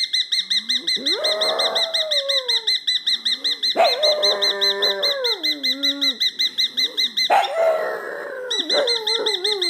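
A bird mimicking a phone ring: a rapid, warbling high trill pulsing about six times a second, breaking off briefly near the end, with lower calls that fall in pitch over it several times.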